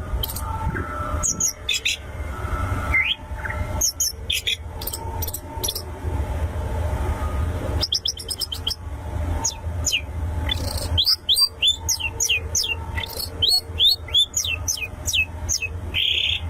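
Long-tailed shrike (pentet) singing: sharp high chirps and fast trills, turning in the second half into a quick run of hooked, falling whistled notes, over a steady low hum.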